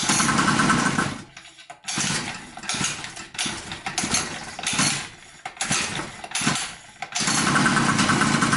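Chinese 50cc two-stroke engine being pull-started over and over on its recoil starter, turning over in a series of pulls of varying length without starting. Two longer pulls come at the start and near the end.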